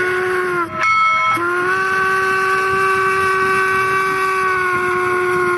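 A train horn sounding in two long steady blasts, each dipping slightly in pitch as it ends, with a brief higher tone in the short gap between them about a second in.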